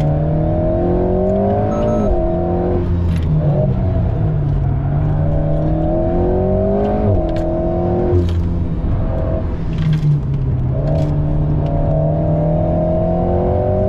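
Alpine A110S's turbocharged 1.8-litre four-cylinder engine heard from inside the cabin on track, pulling up through the revs with sharp drops in pitch at about three and seven seconds. It runs lower and steadier from about eight to eleven seconds, then climbs in pitch again to the end.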